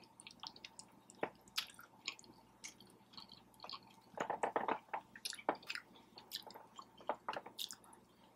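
A person chewing a mouthful of cheesy taco pasta close to the microphone: soft mouth clicks and smacks, most frequent about four to five seconds in.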